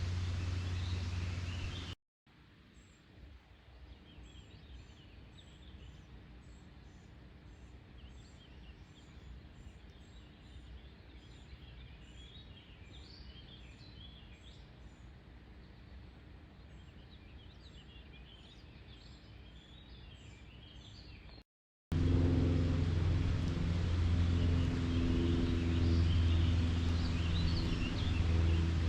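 Birds chirping and singing around the lake, with a thin high chirp repeating steadily through the quieter middle stretch. In about the first two seconds and the last seven, a steady low engine hum lies under the birds, and the sound cuts off and back in abruptly between the parts.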